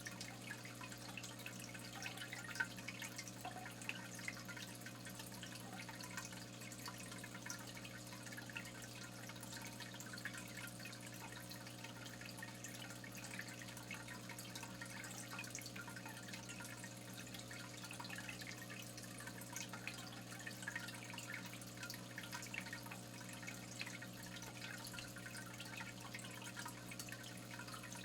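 Water trickling and dripping, many small splashes and ticks, over a steady low hum.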